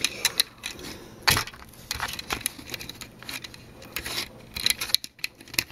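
Small hard plastic parts of a B-Daman marble-shooter toy clicking, tapping and scraping as they are handled and fitted together. One knock about a second in is louder than the rest.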